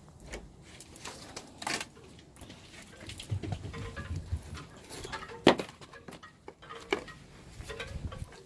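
Irregular light clicks and knocks, with a louder sharp click about five and a half seconds in and a low rumble around three to four seconds in.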